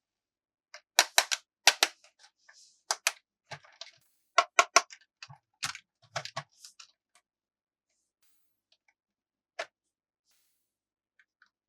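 Sharp clicks and taps of hard plastic toy parts being handled, in quick clusters over the first several seconds, then a single click later on.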